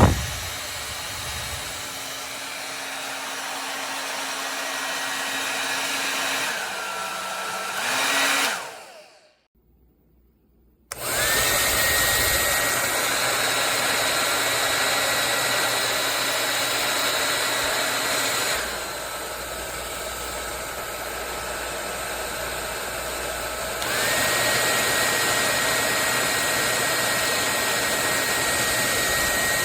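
Drhob 1300 W folding hair dryer blowing, its fan whine and rushing air switching between speed settings. It falls quiet for a moment about nine seconds in, then starts again with a rising whine, drops to a lower speed about halfway through and steps back up to a higher speed near the end.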